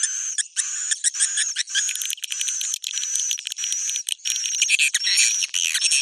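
Swiftlet roosting call (suara inap walet), the kind played in swiftlet houses to draw birds in to roost. It is dense, high-pitched chirping and twittering with rapid clicking trills and short whistled notes, going on without a break.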